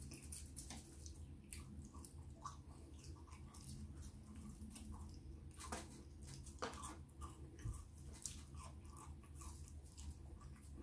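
Close-miked chewing and wet mouth clicks of someone eating chips dipped in curry sauce, with scattered short crackles and clicks throughout. A low steady hum runs underneath.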